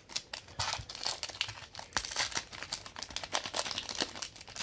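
Foil wrapper of a trading card pack being torn open and crinkled by hand, a busy run of crackling and crinkling throughout.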